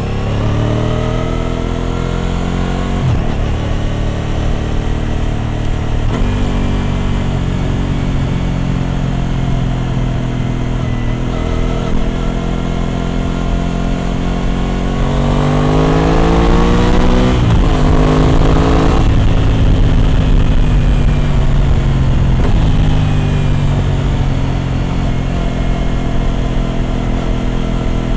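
Aprilia RS 660's parallel-twin engine through an SC Project exhaust under way. The engine note climbs and drops back several times, with its strongest rise about halfway through, easing off shortly after.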